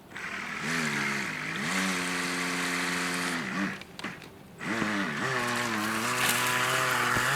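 Motor of a 3D-printed RC jet boat whining as the throttle is worked. It spins up and holds a steady pitch, winds down and stops briefly about halfway, then spins up again with the pitch wavering, over a steady hiss.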